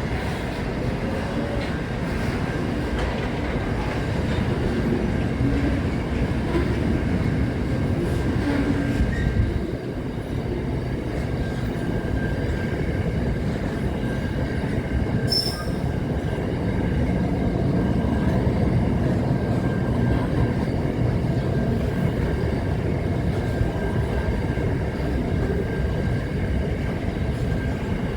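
Train running on the rails with a steady rumble, a thin high wheel squeal held over it much of the time.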